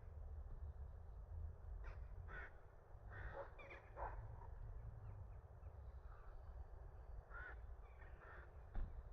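Birds calling outdoors, a series of short harsh calls every second or so, over a steady low rumble.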